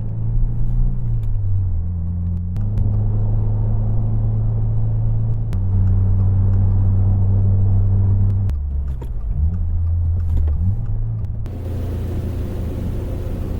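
Subaru WRX's 2.4-litre turbocharged flat-four engine running at low speed, its drone stepping up and down in pitch every few seconds. About eleven seconds in, a steady hiss joins it.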